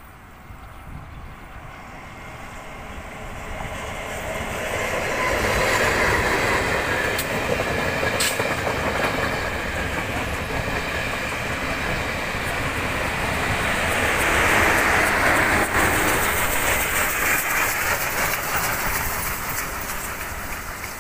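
Passenger train of Chu-Kuang Express coaches passing close by on the rails. The wheel and rail noise builds over the first few seconds, holds loud with clickety-clack and sharp clicks as the coaches roll past, then eases off near the end as the train draws away.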